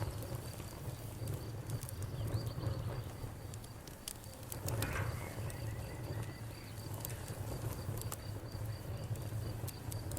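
Campfire crackling with scattered sharp pops over a steady low rumble of burning wood. Crickets chirp steadily in the background.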